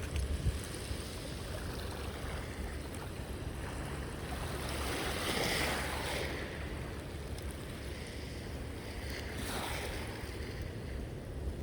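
Sea waves washing onto a beach: a steady surf wash that swells as a wave breaks about halfway through and again more lightly near the end, with a low wind rumble on the microphone.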